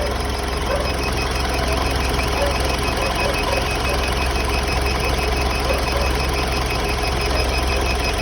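Mitsubishi Montero engine idling steadily with a fast, regular ticking or knocking over the hum: the abnormal noise that its owner is asking for help with.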